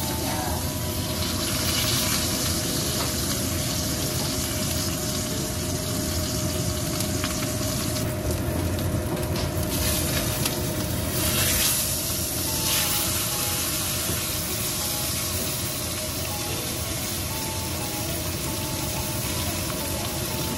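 A fish steak sizzling steadily as it pan-fries in oil, with a louder burst of sizzling around the middle as it is turned over with a spatula.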